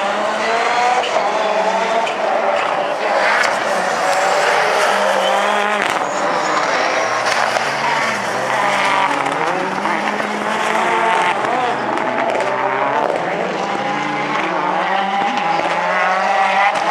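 Rallycross Supercar race cars racing, several engines revving up and down at once with pitches overlapping and shifting.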